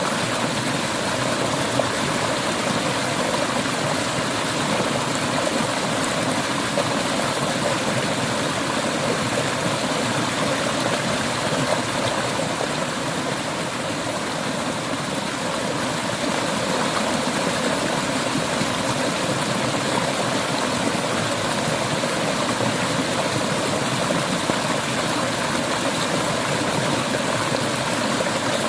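Steady rushing of a flowing mountain river, with a slight dip in loudness about halfway through.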